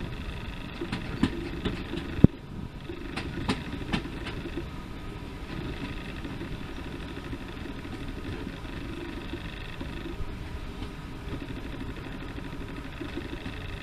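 Railway locomotive engine running steadily at idle, a low rumble with a faint steady whine. A few clicks in the first few seconds, and one sharp knock a little over two seconds in.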